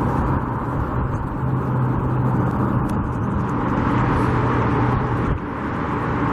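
Steady motor-vehicle engine hum under a constant rushing noise, with a brief dip about five seconds in.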